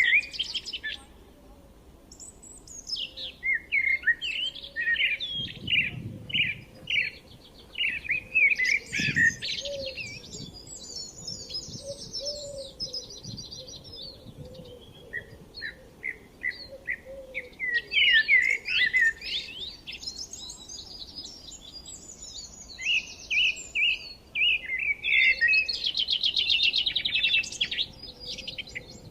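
Songbirds singing: phrases of quick chirps and buzzy trills lasting several seconds each, with short pauses between them.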